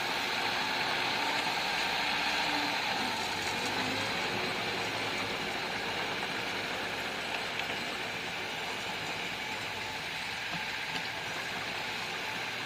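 Bulldozer's diesel engine running steadily under work, a little louder in the first few seconds.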